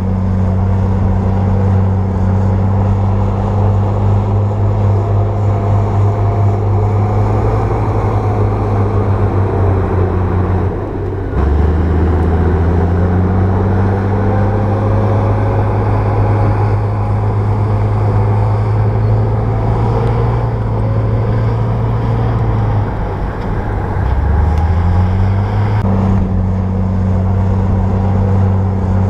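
Bulldozer's diesel engine running steadily under load. Its pitch drops sharply about eleven seconds in and climbs back, then dips and rises again a little before the end.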